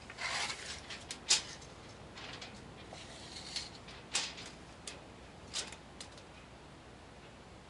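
Tape measure being handled: a short scrape of the blade near the start, then several sharp clicks scattered over the next few seconds.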